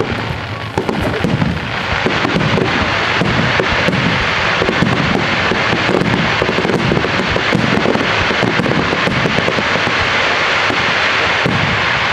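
A dense barrage of aerial firework shells bursting in quick succession, deep booms and crackles overlapping with no gaps. It builds about a second or two in and then stays at full intensity.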